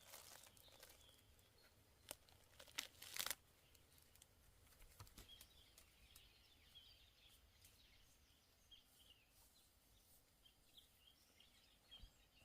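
Faint rustling and crackling, loudest in a few short strokes about two to three seconds in, with faint bird chirps scattered through the rest.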